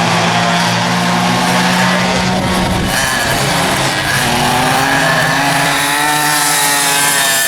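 Vintage rear-engine racing kart engine running at high revs. Its pitch holds steady, then drops and climbs again about three seconds in.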